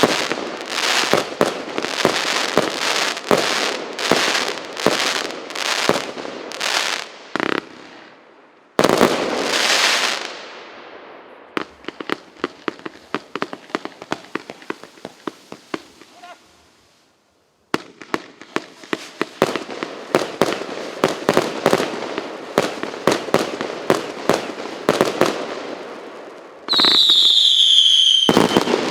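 A 136-shot consumer fireworks cake firing in rapid succession, about two or three shots a second, each shot bursting with crackle; midway the shots thin out to scattered crackling pops and briefly stop before firing resumes. Near the end a whistle shot gives a loud whistle falling in pitch.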